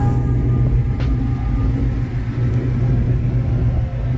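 A car engine idling at a steady low rumble, with a single sharp click about a second in.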